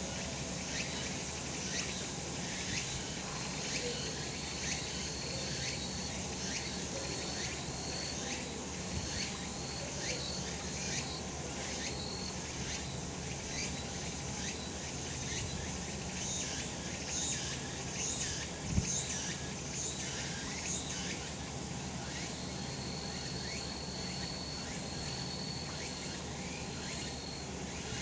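Cicadas singing in chorus: a dense, high buzz that pulses about twice a second, with short, steady, high notes coming and going over it. A single brief low thump a little after halfway.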